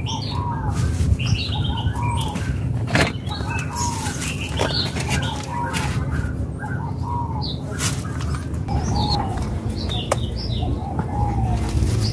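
Birds calling: a short arched call repeated over and over, about once or twice a second, with higher chirps among them, over a steady low rumble. A couple of sharp knocks stand out, about three seconds in and near ten seconds.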